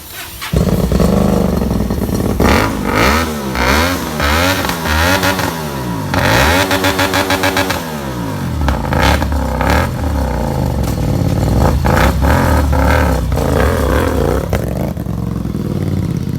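Hyosung GT250R's V-twin motorcycle engine starts running suddenly about half a second in, is revved up and down several times, then runs more steadily with a few short throttle blips.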